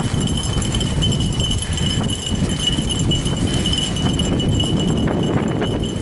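Fat bike rolling along a woodland trail behind running dogs: a steady rumble and rattle from the tyres and bike with light ticks, under a thin steady high tone.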